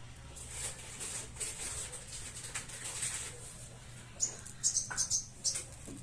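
Sunbird giving a quick series of short, high, thin chirps about four seconds in, after a stretch of soft scratchy rustling. A faint steady low hum runs underneath.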